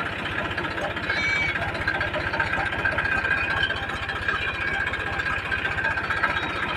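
Diesel tractor engine idling with a steady, even beat.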